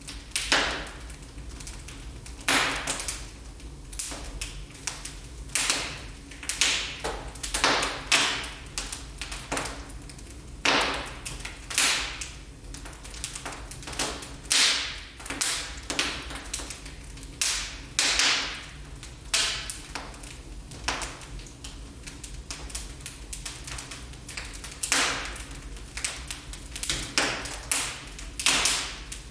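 Wood fire burning in a fireplace, crackling and popping irregularly, with sharp cracks coming in clusters over a faint low hiss.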